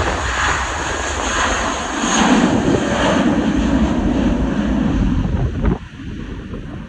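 British Airways jet airliner's engines running at takeoff power as it departs, mixed with heavy wind buffeting on the microphone. The engine noise falls away sharply about six seconds in, leaving mostly wind rumble.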